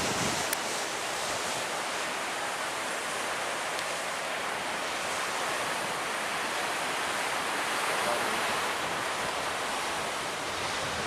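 Surf breaking on the beach: a steady rushing hiss that swells slightly a little past the middle.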